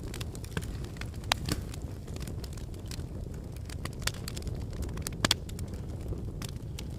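Wood fire burning in a fireplace: a steady low rumble of flames with scattered sharp crackles and pops from the logs, the loudest pops about a second and a half in and again past five seconds.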